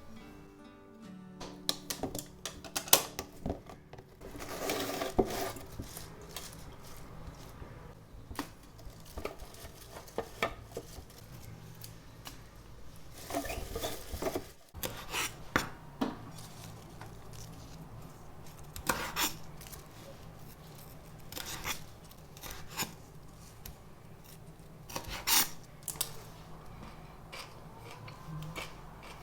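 Kitchen handling sounds: dishes and cutlery clinking and being set down, with scattered sharp clinks, knocks and short scrapes.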